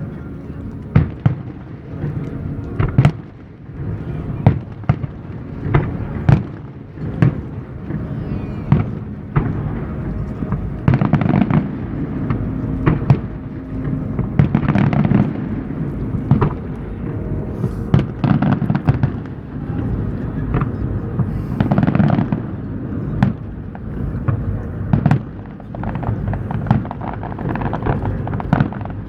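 Aerial fireworks display: a dense, irregular run of sharp shell bursts, often more than one a second, over a continuous low rumble.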